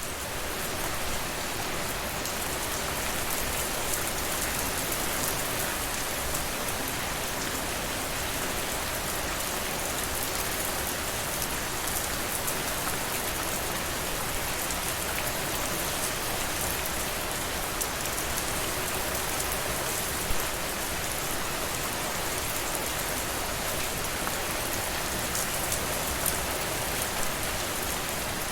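Steady rain falling on a surface, an even hiss with many small drop ticks, fading in over the first second. A single louder drop lands about two-thirds of the way through.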